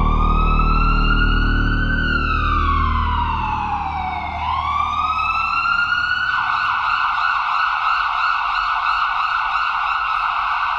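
Emergency-vehicle siren wailing in two slow rise-and-fall sweeps, then switching about six seconds in to a fast yelp. A low hum under the first few seconds fades out.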